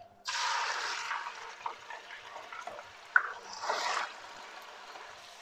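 Raw chicken slices dropped into hot oil in a wok: a sizzle that starts sharply and dies down over about two seconds, with a second, shorter flare of sizzling a little before four seconds in.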